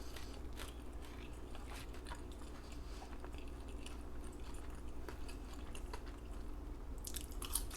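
Chewing food close to the microphone, with faint scattered wet clicks and mouth smacks.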